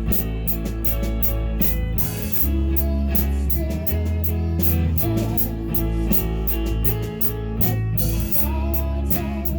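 Live rock band playing a song: guitar over bass and drums, with a steady beat.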